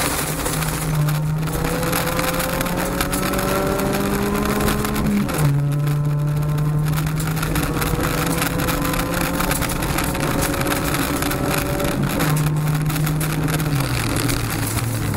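Honda Civic V1600-class rally car's engine at speed, heard from inside the cabin over gravel and tyre noise. Its pitch climbs slowly, drops sharply with an upshift about five seconds in, climbs again, and falls back in two steps near the end.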